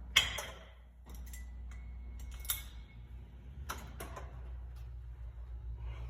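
A few sharp clacks and knocks of gym equipment being handled, the loudest just after the start and four more spread over the next few seconds, over a steady low hum.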